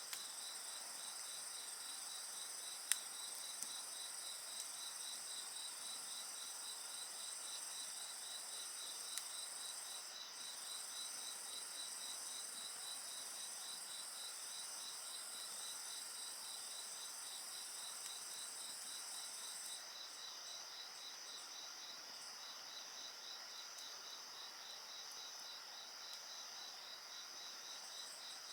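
Several insects chirping together in steady, layered high trills, one of them an even pulsing chirp; the highest trill stops about two-thirds of the way through. A few sharp crackles from a wood fire, the loudest a few seconds in.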